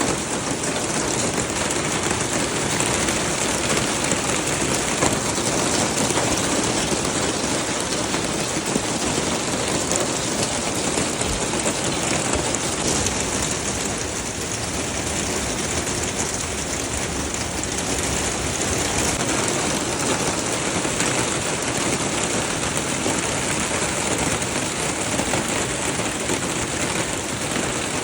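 Hail falling hard: a dense, steady clatter of hailstones striking surfaces, with no let-up.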